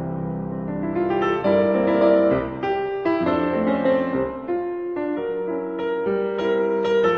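Background piano music: a gentle melody of piano notes played over soft held chords.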